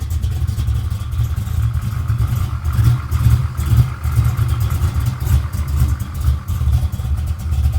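800-horsepower 1970 Chevelle's V8 engine running at a loud, uneven idle, its low exhaust note pulsing.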